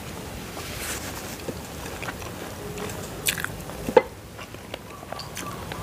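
Close-up mouth sounds of a person chewing a mouthful of rice and boiled egg eaten by hand, with a few sharp clicks, the loudest about four seconds in.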